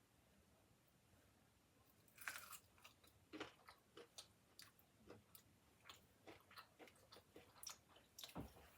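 A person biting into a brisket burnt end about two seconds in, then chewing it with short, quiet mouth sounds about two a second.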